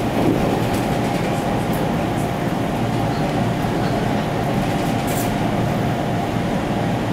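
Running noise inside a 489-series electric limited express train at speed: a steady rumble of wheels on rail, with a faint whine in the middle range. A brief high hiss comes about five seconds in.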